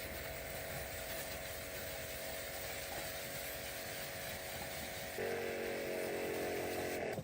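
Electric power tool running steadily, with a steady whine over a hiss. It gets louder and its pitch shifts about five seconds in, then cuts off suddenly near the end.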